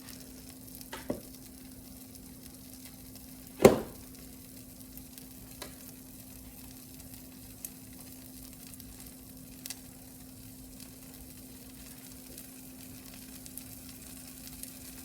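A tortilla frying in butter on a hot griddle, sizzling with a steady faint hiss over a steady low hum. A few sharp knocks sound as well, the loudest about four seconds in, with lighter ticks scattered through.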